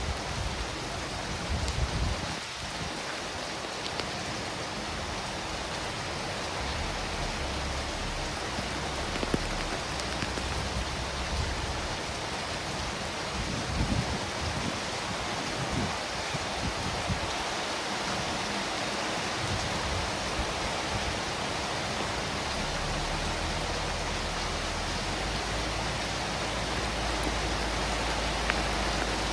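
Steady rain falling and pattering on surfaces, with scattered drop ticks and a low rumble now and then.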